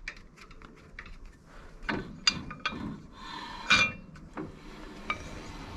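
Metallic clicks and clinks from the Frontier OS27 sawmill's hand-wound mechanism being worked by hand, with a few sharper metal knocks about two and four seconds in, one ringing briefly. It is being tried after a grub screw that had come loose on its shaft was re-tightened.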